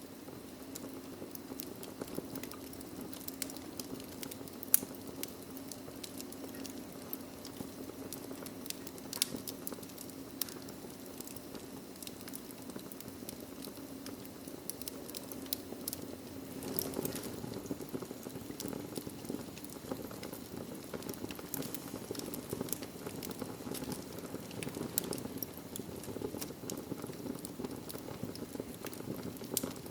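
Wood fire crackling in a fireplace: a steady low rush of burning with frequent small snaps and pops, a few of them louder.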